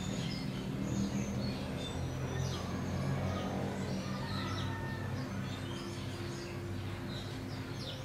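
Small birds chirping in short, high, quickly falling notes, several overlapping at once, over a low steady hum.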